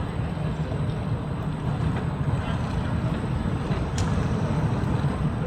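Boat engine running with a steady low rumble, with a short sharp click about four seconds in.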